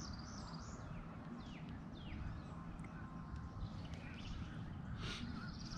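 Wild birds calling: short high chirps and quick downward-sweeping notes, then a fast rising trill near the end, over a steady low rumble.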